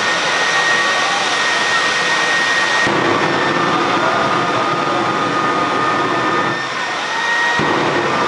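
Jet truck's jet engine running loud and steady, a high turbine whine over a dense rushing blast. A deeper rumble cuts in sharply about three seconds in, drops away briefly, and returns near the end.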